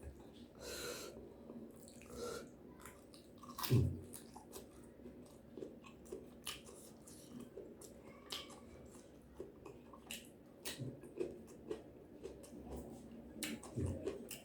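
A person chewing and biting food up close, a meal of fried chicken, fried tofu and tempeh with sambal and raw vegetables. There are irregular small mouth clicks throughout and one louder bite about four seconds in.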